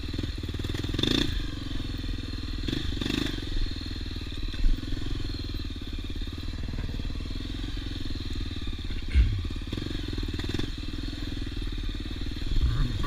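Off-road trail motorcycle engine running steadily, with a few short louder bursts.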